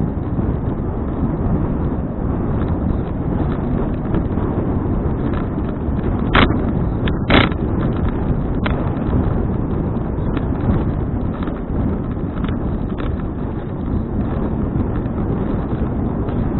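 Wind buffeting the microphone of a bicycle-mounted action camera while riding: a steady, loud rumbling rush, with two sharp knocks about six and seven seconds in.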